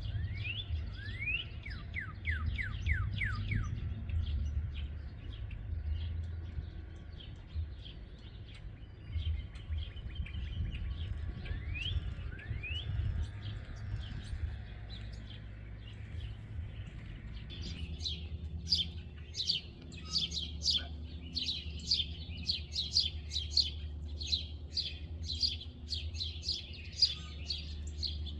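Small birds chirping: short rising whistled calls a few times in the first half, then a fast, continuous stream of sharp chirps from about two-thirds of the way through. Wind rumbles on the microphone underneath.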